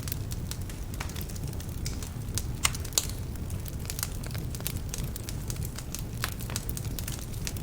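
Wood fire burning in a fireplace: a steady low rumble of flames with frequent irregular sharp crackles and pops from the logs, two of them louder about two and a half and three seconds in. Some logs are damp, which adds to the crackling.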